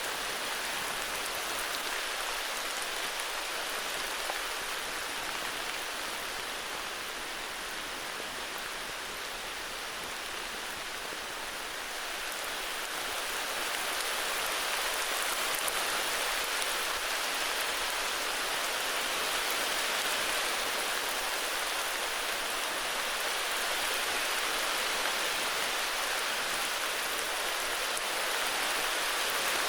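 Steady heavy rain falling in a forest, an even hiss of many drops with no distinct splashes or thunder, easing slightly for a few seconds early on and then picking up a little.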